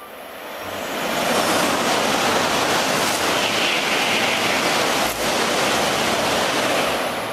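Shinkansen bullet train passing a station platform at high speed without stopping: a rushing noise of air and wheels that swells over the first second or so, holds steady while the cars go by, then starts to fade near the end.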